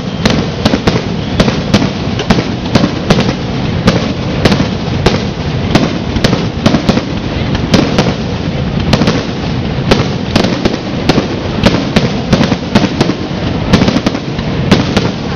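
Fireworks going off in a continuous barrage: sharp cracks and bangs come a few times a second, irregularly, over a steady bed of crackling.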